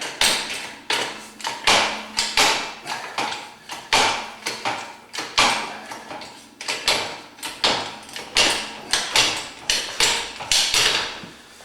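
Repeated hammer blows on a steel tractor wheel, ringing, roughly two a second at an uneven pace, as the cast wheel center is knocked to free it from the rim.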